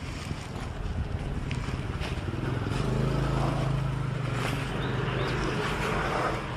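A motorbike engine running close by, its steady low note swelling about two and a half seconds in and easing off near the end, over general street traffic noise.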